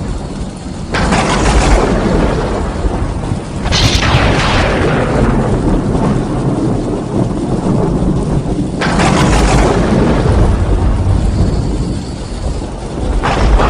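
Thunder: four sudden claps, about a second in, near four seconds, near nine seconds and near the end, each rolling into a long rumble, with steady rain underneath.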